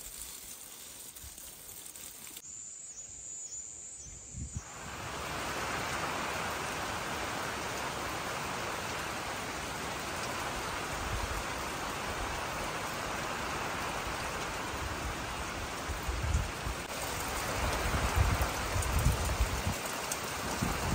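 Water pouring from a hose briefly, then after a short lull steady rain comes in and keeps falling evenly, with a few low thuds near the end.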